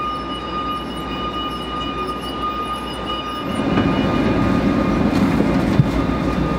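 Steady hum of a train standing at a station platform, with a high whine held on one pitch. About halfway through a louder low rumble takes over and a few footsteps knock as people step aboard through the carriage door.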